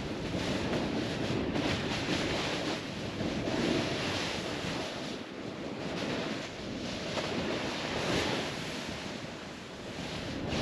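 Wind rushing over the microphone while a snowboard slides through powder snow. The rush swells and eases every two seconds or so.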